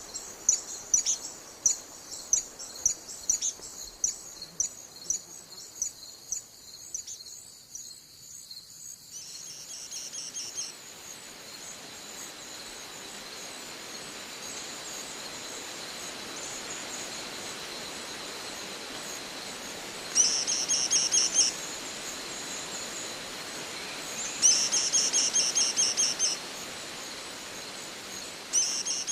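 High-pitched chirps repeated about twice a second, fading over the first nine seconds. After that comes a steady soft background hiss, broken three times by bursts of rapid high trilling, each about a second and a half long, of a bird or cricket.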